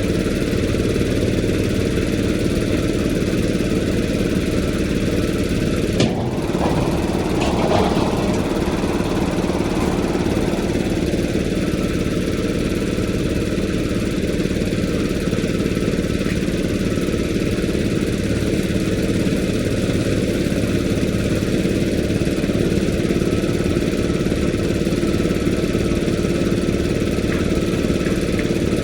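An engine idling steadily, with a sharp click about six seconds in and a brief clatter just after.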